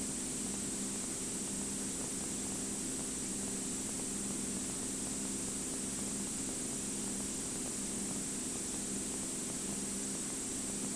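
Steady hiss and static with a low hum on a light aircraft's radio and intercom audio feed, with no transmissions.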